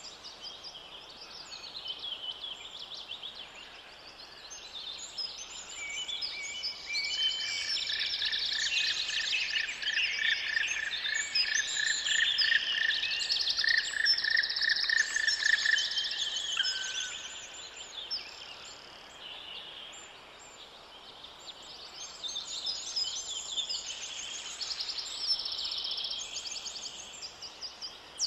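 Several songbirds singing together in a forest, a busy mix of high chirps and trills that thickens in the middle. For a stretch in the middle, one bird repeats a single lower note about three times a second.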